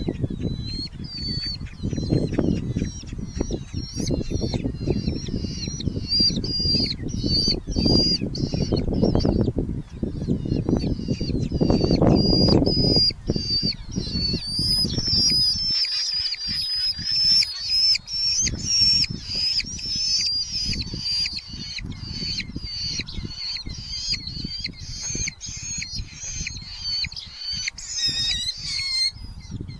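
Red-footed falcon chicks calling: a continuous run of short, high, repeated calls, two or three a second. Low rustling and thumping in the nest box under the calls during the first half.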